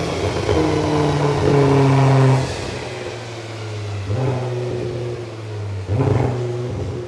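Nissan GT-R engine held at high revs, then dropping back about two and a half seconds in and running lower, with a sharp exhaust pop about six seconds in.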